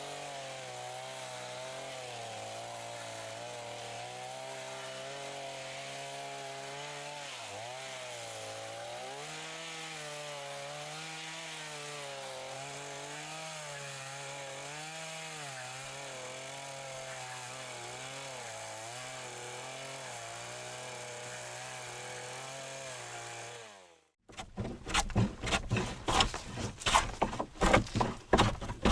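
Two-stroke chainsaw running steadily under load, its pitch wavering gently as it cuts lengthwise through wood for board-making. It fades out about 24 seconds in, and after a short gap a much louder run of irregular knocking and rasping on wood begins.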